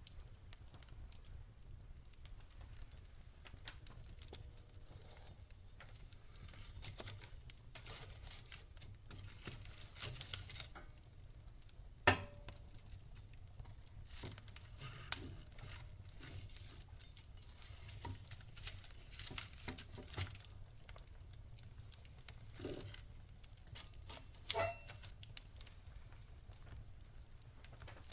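Campfire crackling: a steady scatter of small snaps and ticks with a faint hiss, a sharp loud pop about twelve seconds in and another pop near the end.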